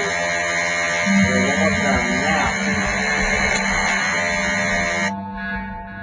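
Electric motor running at speed with a steady buzzing whine. About five seconds in, the upper part of the sound cuts off abruptly, leaving a lower steady tone.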